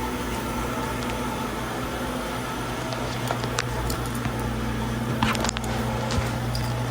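Steady low hum of a car's engine and air-conditioning fan heard inside the cabin, with a few light clicks and rustles of something being handled in the second half.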